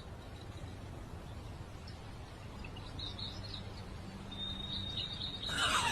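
Faint bird chirps over a steady background hiss, with a thin high steady tone joining partway through. Near the end a louder sound with a falling pitch begins.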